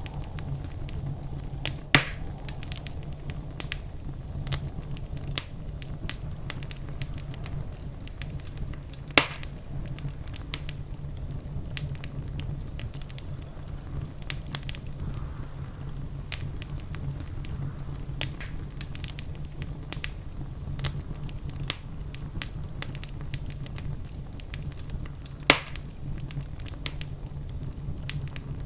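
Wood fire crackling in a fireplace: a steady low rumble of flames with a constant scatter of small crackles, and three sharp, louder pops spread through the stretch.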